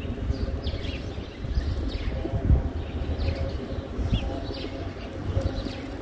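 Birds chirping with short, high calls every second or so, over a steady low rumble.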